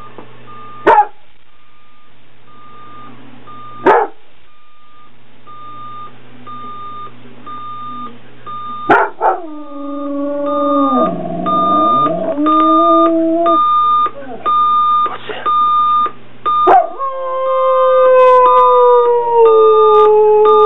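An alarm clock beeping in a steady pulse that changes to a faster pattern about halfway through, while a dog gives two sharp yelps and then howls along to it. There are two long howls, the first sliding down in pitch and the second held long and slowly falling.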